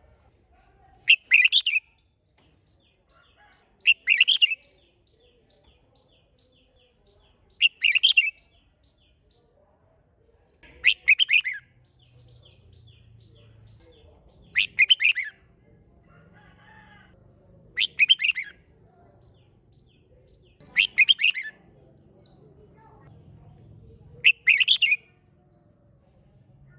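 Red-whiskered bulbul singing: eight short, loud song phrases, one every three to four seconds, with faint softer chirps between them.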